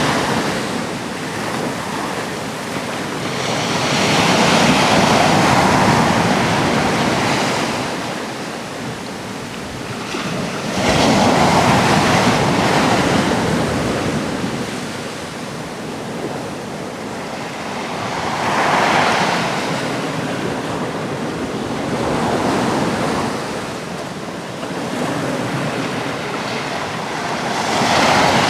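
Atlantic surf breaking on a rocky coast: a continuous wash of waves, swelling as a breaker comes in about every six to eight seconds, with some wind on the microphone.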